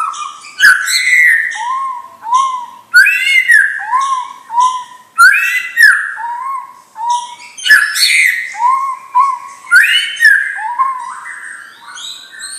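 White-rumped shama singing: a steady run of clear, arching whistled notes, about one phrase a second, mixed with quick scratchy higher notes.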